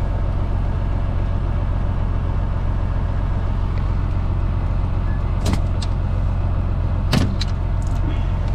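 Semi truck's diesel engine idling steadily, with two sharp clicks about five and a half and seven seconds in.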